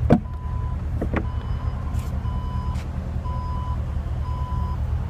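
A car's electronic warning beep sounds four times, evenly spaced about a second apart, over a steady low rumble. Two short falling swishes come just before the beeps start.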